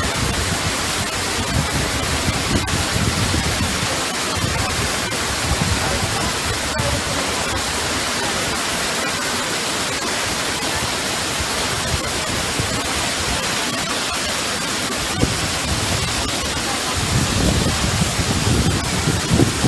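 Waterfall water rushing in a steady, even roar, with irregular low rumbles that grow stronger near the end.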